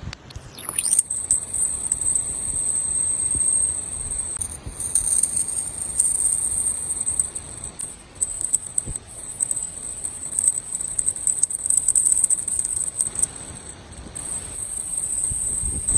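1/24-scale FMS Max Smasher RC mini monster truck running: its small electric motor gives a high-pitched whine that swoops down in pitch at the start and wavers as the throttle changes. Scattered clicks and rattles come from the little truck bouncing over the ground.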